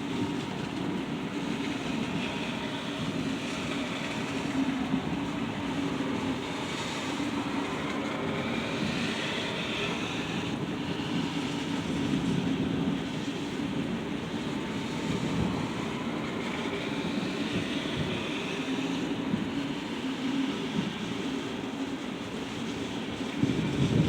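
Thunderstorm: a steady low rumble over the noise of rain, with no sharp thunderclap.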